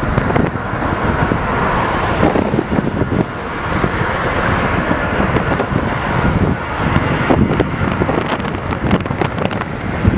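Jet airliner engine noise, a loud steady rush, with wind buffeting the microphone.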